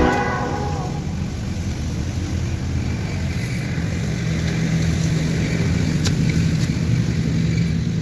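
Steady low rumble of a running vehicle, with a faint hum and a couple of light clicks about six seconds in.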